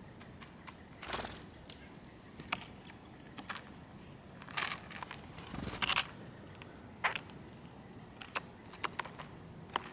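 Small birds at a seed feeder: scattered, irregular short clicks and taps with a few brief high chirps, one of them a quick falling note.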